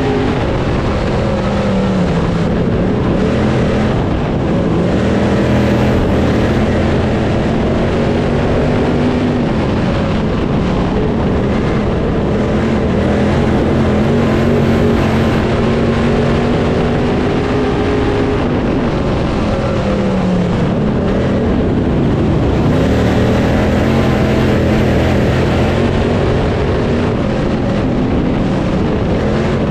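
Crate late model race car V8 engines running at racing speed on a dirt oval, continuous and loud, the pitch falling off and then climbing again every several seconds as the cars lift for the corners and power down the straights.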